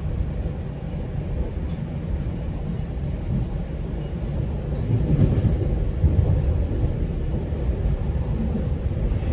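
GO Transit commuter train running on the rails, heard from inside a passenger coach: a steady low rumble of wheels on track that grows a little louder about five seconds in.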